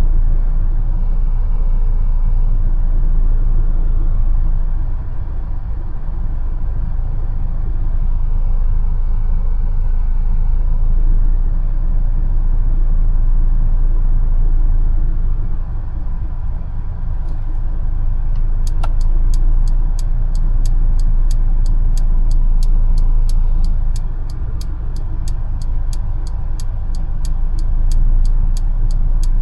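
Mercedes-Benz A180 driving, with a steady low rumble of engine and road noise. About two-thirds of the way in, the turn indicator starts ticking in a fast, even rhythm and keeps going.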